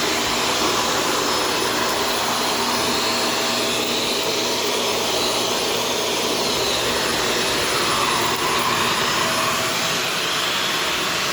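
Shark Stratos vacuum cleaner running steadily, a rush of air with a thin high whine held throughout.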